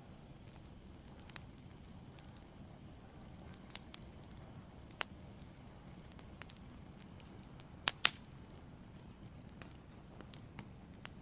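Wood fire in a fireplace crackling: scattered sharp pops over a low, steady rush, with two louder pops close together about eight seconds in.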